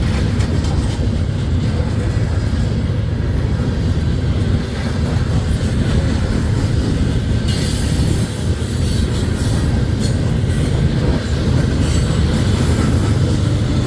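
Freight train rolling past close by: a steady, loud rumble of steel wheels on the rails, with wheel clatter.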